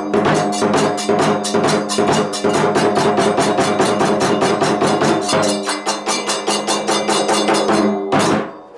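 Kagura musical accompaniment: drums and small hand cymbals beating a fast, steady rhythm of about six strokes a second, with ringing metallic tones underneath. The beating breaks off near the end.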